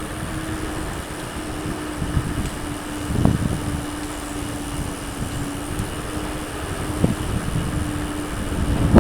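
Mountain bike rolling along a trail: steady wind and tyre rumble with a faint constant hum, and a knock from the bike about three seconds in and again about seven seconds in.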